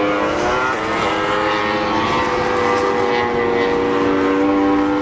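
MotoGP racing motorcycles' engines running at high revs on track, a loud, steady drone of several overlapping engine notes whose pitch slowly slides up and down.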